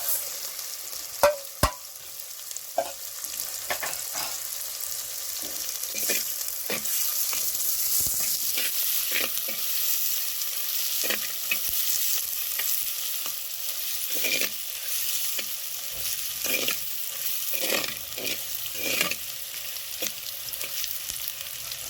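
Onions and green chillies sizzling in hot oil in a pan while being stirred, with a spatula repeatedly scraping and clicking against the pan. Two sharp clicks about a second and a half in are the loudest sounds.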